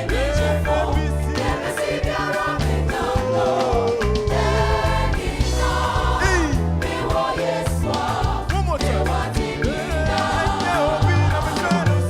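Gospel music: voices singing over a band with a steady bass line.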